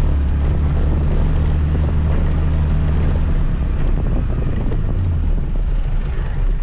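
Scooter engine running while riding, with wind rushing over the microphone; the engine's low steady note changes about halfway through.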